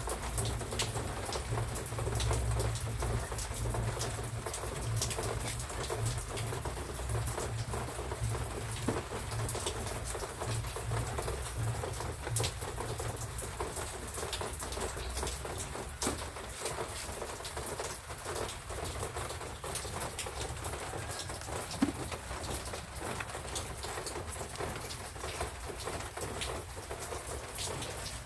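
Steady rain falling and pattering on surfaces, with many small drop ticks, and a low rumble underneath for the first half that fades out about halfway through.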